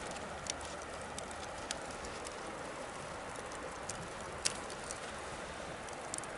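Bonfire crackling: irregular sharp pops and snaps over a steady rushing noise from the burning wood, the loudest pop about four and a half seconds in.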